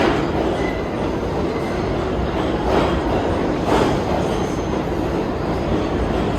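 New York City subway train running along the track: a steady rumble of wheels on rail, with several knocks from the wheels over rail joints.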